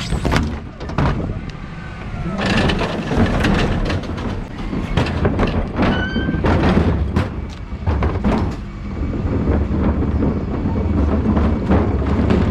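Dennis Elite 6 refuse truck running, a steady low rumble with frequent clunks and rattles throughout.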